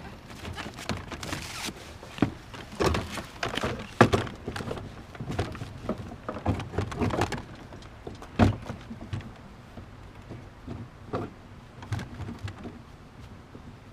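Irregular knocks, clunks and rattles of gear being handled, busiest in the first half, with the sharpest hits about four and eight and a half seconds in.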